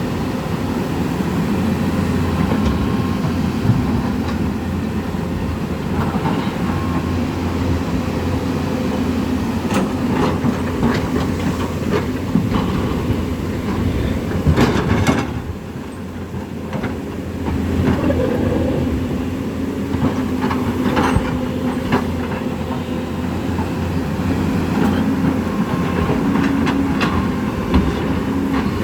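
Floodwater in a swollen river rushing past: a loud, steady low rumble with scattered knocks and clatters, dipping briefly about halfway through.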